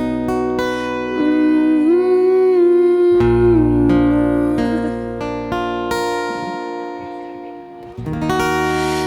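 Live band music: strummed acoustic guitar chords under a held melody line that glides between notes, fading down about three quarters of the way through before a fresh chord comes in near the end.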